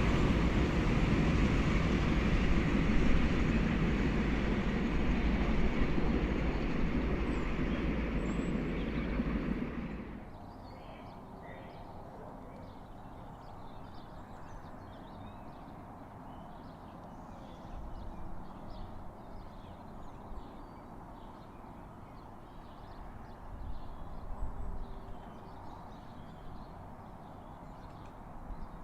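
A train passing through the station, its rumble running steadily and easing a little for about ten seconds, then cutting off suddenly. After that only a low background with faint bird chirps.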